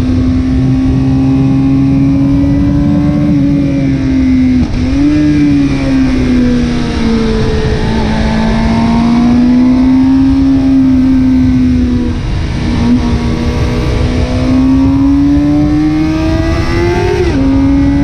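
2021 Suzuki GSX-R750's inline-four running through a Yoshimura TRC end can on stock headers and cat. Engine speed holds fairly steady with slow rises and dips, and drops sharply about three and a half seconds in, around twelve seconds in, and near the end.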